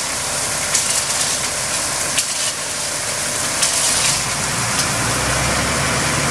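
Tata 1613 lorry's diesel engine working, under a steady crackling hiss; the low engine note grows louder about four seconds in.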